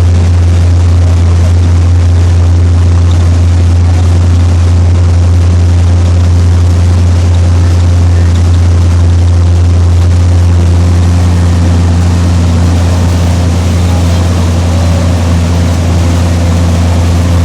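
Motorboat engine running steadily at cruising speed: a loud, even drone with water and wind hiss over it, the pitch holding steady throughout.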